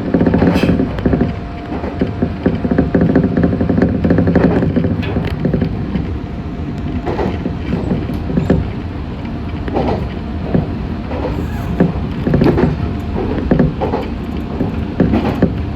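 Meitetsu 6500 series electric train running, heard from inside the car: a steady running hum with a few constant tones, and wheel clacks over rail joints every second or two.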